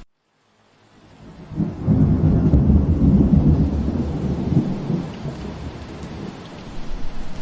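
Rain ambience drops out to silence for about half a second and fades back in, then a low rumble of thunder rises about a second and a half in and lasts about three seconds before easing back into steady rain.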